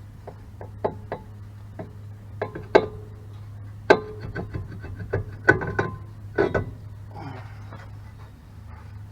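A run of knocks and clinks of metal tools and brake parts being handled, about a dozen in the first seven seconds, several ringing briefly, over a steady low hum.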